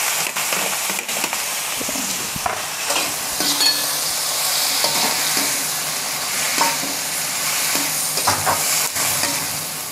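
Sliced mushrooms and meatball slices sizzling as they fry in hot oil in a wok, stirred and tossed with a metal spatula that clicks and scrapes against the pan a few times.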